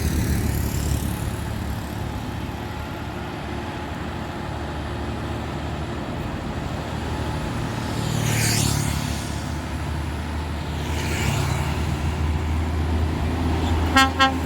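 Heavy diesel dump truck engines running steadily, with two brief airy hissing rushes in the middle. Near the end a truck horn gives three short, quick toots.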